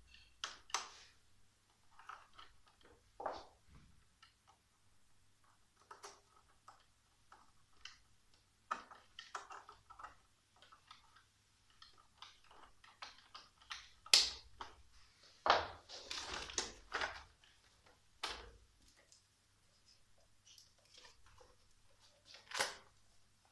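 Hands working on a Roomba 886 robot vacuum's plastic parts while cleaning hair out of it: scattered clicks, taps and scrapes. A sharp click comes a little past halfway, then about two seconds of louder scraping and rustling.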